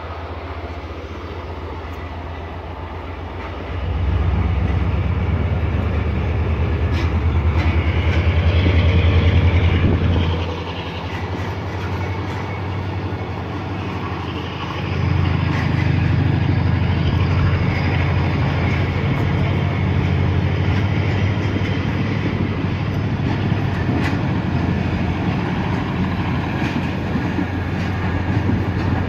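Passenger coaches of a departing Pakistan Railways express train rolling past at low speed, a steady low rumble of wheels and running gear with occasional clicks. It grows louder about four seconds in, eases a little around ten seconds, and swells again from about fifteen seconds on.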